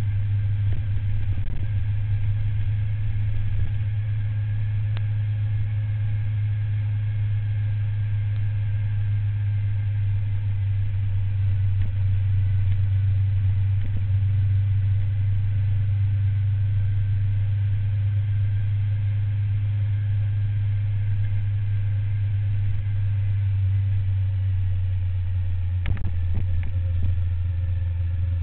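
Suzuki SV1000N's 90-degree V-twin engine running at a steady cruise, heard from on board as a strong, even low drone.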